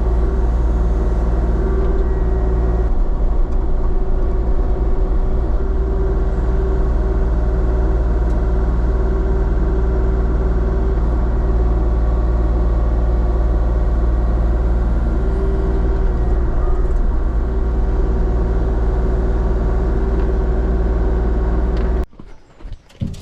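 Diesel engine of a compact earthmoving machine running steadily at a constant speed, heard from close by. It cuts off abruptly about 22 seconds in, leaving only a few light knocks.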